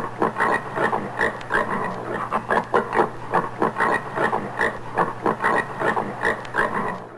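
Common warthog giving a long run of short grunts, about three a second.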